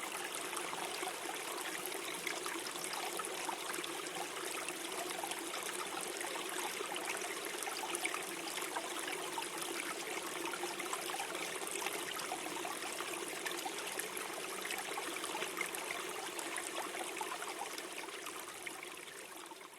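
Small forest stream gurgling and trickling over stones in a steady flow, fading out near the end.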